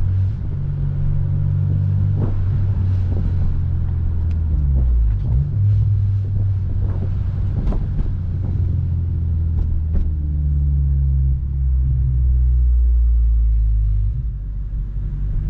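Eighth-generation Honda Civic Si's four-cylinder engine and aftermarket exhaust pulling at low revs in traffic, heard from inside the car: a steady low drone whose pitch dips briefly about five seconds in.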